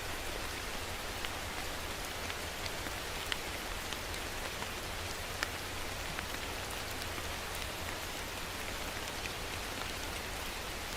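Steady rain falling, with many individual drops pattering on a surface over an even hiss and a low rumble.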